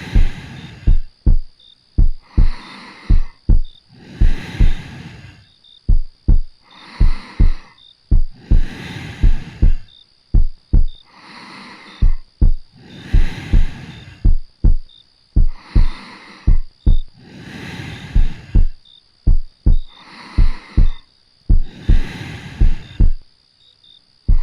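Heartbeat thumping steadily in lub-dub pairs, about one pair a second, with slow soft breaths rising and falling between them.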